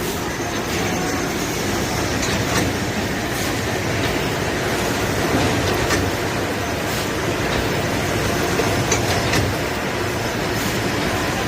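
FP6000cs automatic shrink-wrapping machine running steadily as it wraps gimbap, a constant mechanical rattle with occasional sharp clacks.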